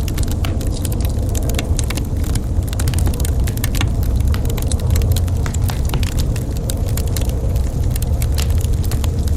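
Wood fire crackling in a fireplace, with frequent small sharp pops and snaps over a steady low rumble.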